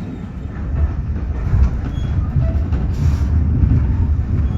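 Moving passenger train carriage rumbling along the rails, heard from on board: a heavy low rumble that grows louder about a second in, with faint clicks from the wheels and couplings.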